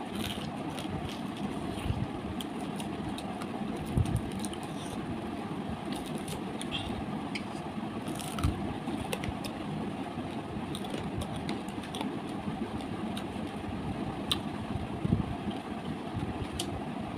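Close-up chewing and crunching of fried fish eaten by hand, with small sharp mouth clicks, over a steady low background rumble; a few soft thumps stand out.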